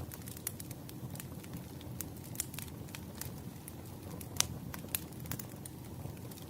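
Wood fire crackling: irregular sharp pops and snaps over a low steady rumble of flame, with one louder pop about two-thirds of the way through.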